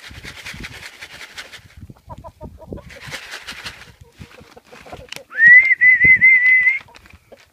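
A person whistling one long, wavering note that slides up at its start, the usual call to bring chickens into the pen. Before it come bursts of rustling and a few soft clucks from the hens.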